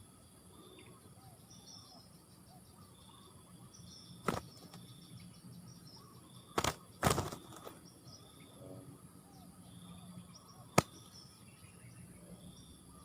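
Short, high chirps repeating about once a second over faint outdoor background noise. Sharp loud clicks or knocks come about four seconds in, twice around seven seconds, and once near the end.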